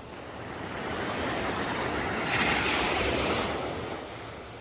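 Ocean surf on a beach: a wave breaks and washes in, swelling from about a second in, loudest and hissiest around the middle, then fading away near the end.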